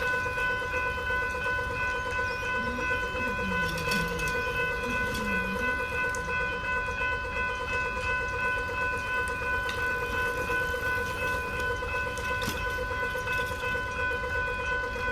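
Level crossing's General Signals electronic bell ringing steadily, a fast-pulsing warning tone, while the crossing is activated. A low rumble runs beneath it.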